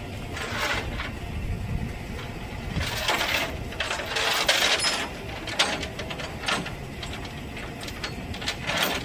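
A truck engine running with a steady low rumble, broken by several short bursts of hissing noise.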